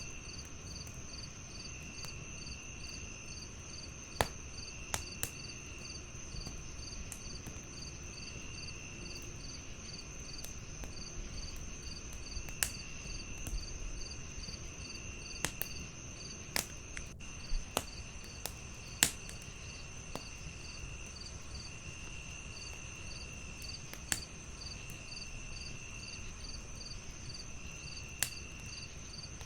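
Crickets chirping in layers: a steady high trill, a fast even pulsing, and a lower trill that comes in bursts of about a second every couple of seconds. A wood fire crackles over a low hiss, with sharp irregular pops, about a dozen in all.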